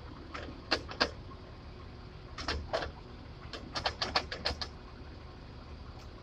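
A series of short, sharp clicks and knocks in three irregular clusters, over a steady low rumble.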